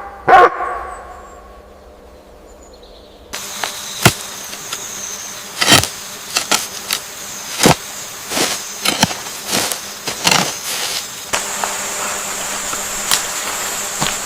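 An animal call rising and falling in pitch sounds just after the start. From about three seconds in there is busy rainforest ambience: many short, sharp chirps over a steady hiss, joined by a steady high insect buzz near the end.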